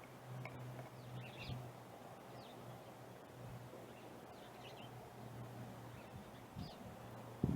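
Faint, scattered short bird chirps over a low steady hum.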